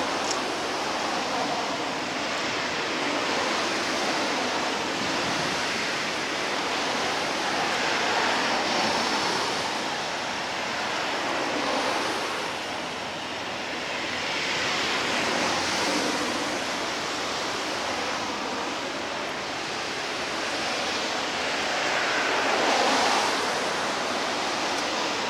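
Waves washing in against the shore as a steady rushing noise that swells and falls about every seven seconds.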